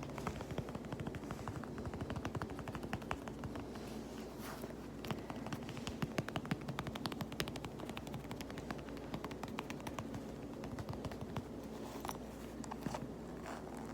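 Rapid, fast-paced tapping on a fabric pouch, a dense run of sharp ticks that thins out near the end.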